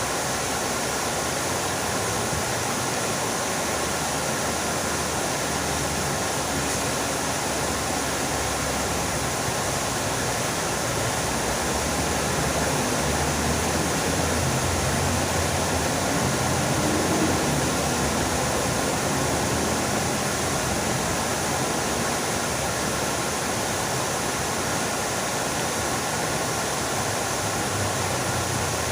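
Water fountain splashing, an even rush of falling water that swells a little in the middle.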